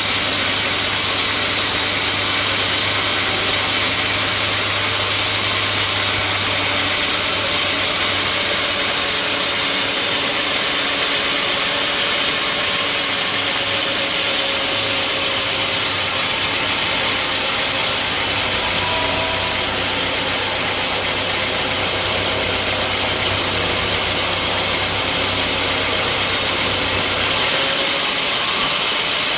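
Engine-driven sawmill machinery running steadily, with a continuous motor drone and saw noise, working mahogany timber.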